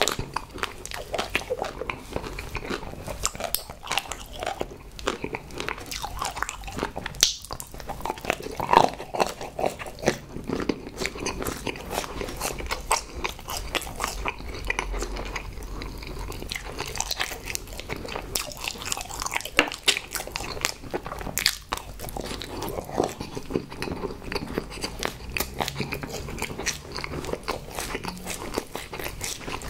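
Close-miked chewing and crunching of chocolate-coated sweets: a continuous run of small crunches and mouth clicks.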